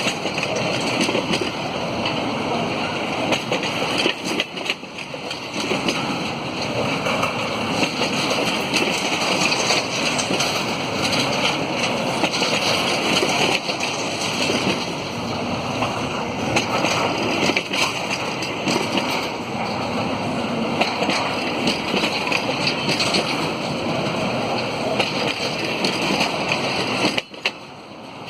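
Empty container flatcars of a freight train rolling past on the rails: a steady, loud wheel-on-rail rumble with frequent small clicks and rattles, dipping briefly near the end.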